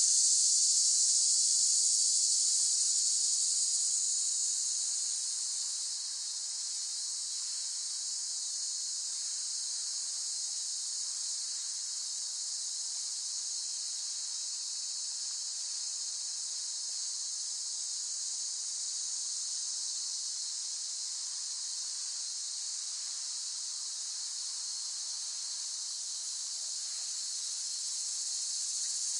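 Cicadas calling in chorus: a steady, high-pitched buzz that eases off over the first few seconds, holds steady, and swells again near the end.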